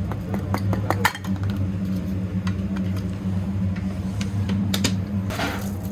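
Workshop sounds: a steady low hum with scattered sharp clicks and clinks of metal tools and parts being handled, thickest in the first second, and a brief rushing noise a little after five seconds.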